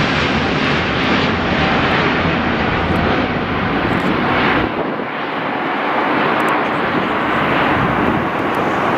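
Jet airliner engines, loud and steady, with the deep low rumble dropping away about five seconds in.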